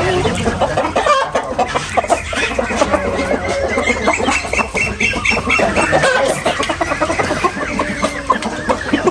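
Many chickens clucking and calling over one another, with a fast run of high repeated notes coming in about halfway through.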